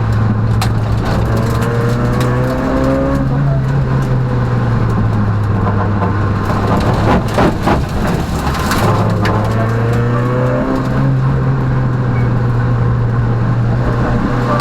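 Peugeot rally car's engine running hard at racing speed, its pitch rising twice as it accelerates. Midway there is a rougher stretch of knocks and clatter while the engine note dips, then it picks up again.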